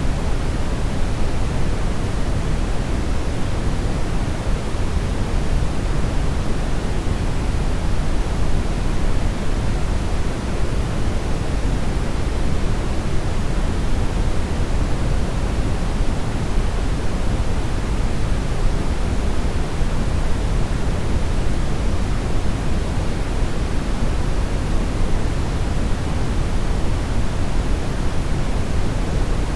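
Brown noise: a steady, even rumbling hiss, strongest in the low end and falling off toward the highs, without any change or event.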